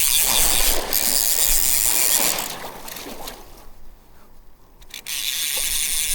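Fly reel's ratchet-and-pawl drag buzzing as a hooked steelhead runs line off it. The buzz dies away after about two and a half seconds and starts again suddenly near the end, as the fish pauses and then runs again.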